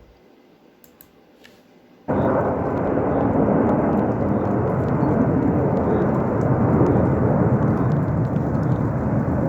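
Aircraft flying over low: a loud, steady roar that starts suddenly about two seconds in.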